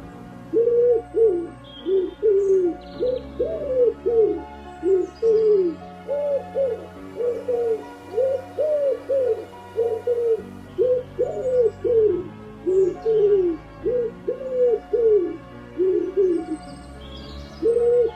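Birds calling over and over, in short low arched notes that come two or three at a time without a break, with a few faint high chirps from smaller birds now and then.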